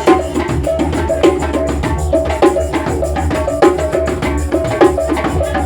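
Didgeridoo funk played live: a didgeridoo holding a deep steady drone under a busy, driving rhythm of drums and wood-block-like percussion hits.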